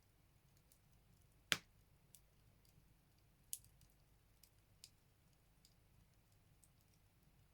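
Firewood crackling in a Buleryan stove: a sharp pop about one and a half seconds in, another about two seconds later, and a few faint ticks.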